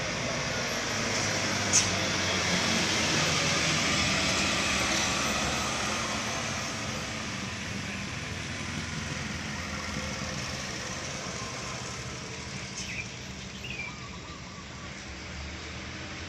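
Heavy diesel truck engine labouring up a steep climb, growing louder over the first few seconds and then slowly fading as it passes. A short sharp click about two seconds in.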